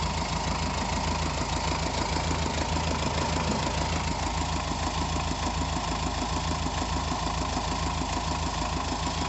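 Subaru EE20Z 2.0-litre flat-four turbodiesel idling steadily with the clutch pedal pressed, the condition under which the owner reports a knock; the engine speed stays even throughout.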